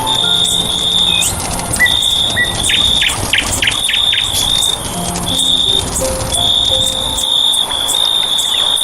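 Chorus of birds and insects: a high, buzzy trill repeating in bursts, a quick run of sharp descending chirps about three seconds in, and scattered short whistles, over soft sustained low tones.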